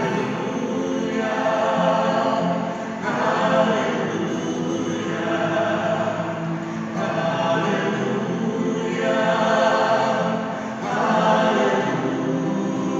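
Choral music: a choir singing long, held notes in slow phrases that change every few seconds.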